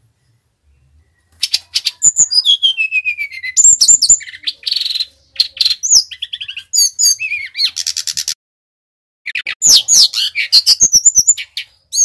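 Brown-chested jungle flycatcher (sikatan rimba dada coklat, 'SRDC Bali') singing a fast, varied song of high chirps and sliding whistles. It starts about a second and a half in and breaks off briefly before resuming for the last few seconds.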